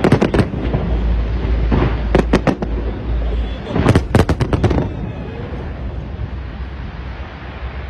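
Fireworks going off: three quick volleys of sharp bangs in the first five seconds, the last one the loudest, then steadier, quieter background noise.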